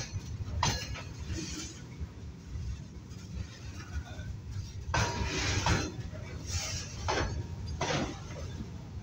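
Freight train of loaded flat wagons rolling slowly past: a steady low rumble of wheels on rail, broken by short bursts of metallic clanking and scraping from the wheels and couplings, bunched together in the second half.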